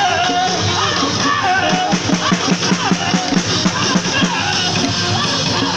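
Punk band playing loud live rock: guitar, a fast steady beat and a singing voice.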